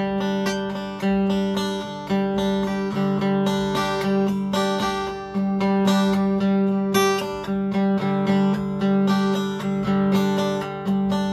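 Acoustic guitar strumming chords, with a strong strum about once a second: the instrumental intro of a song, before the singing starts.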